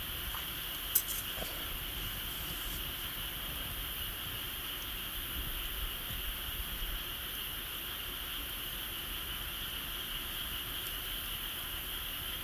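A steady high chirring of insects, with one sharp crack from the burning wood fire about a second in and a few faint ticks after it.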